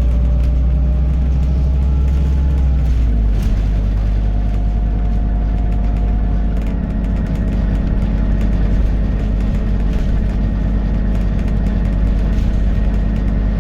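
Scania N280UD double-decker bus engine running under way, heard from inside the bus with road noise; the engine note changes about three seconds in and then runs on steadily.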